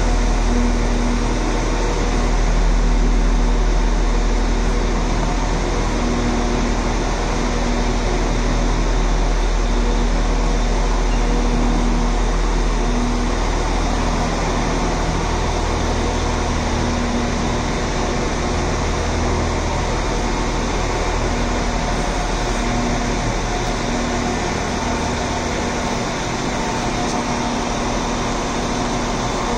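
Train standing at a station platform with its engine and ventilation running: a steady mechanical drone over a low rumble, with a hum that comes and goes.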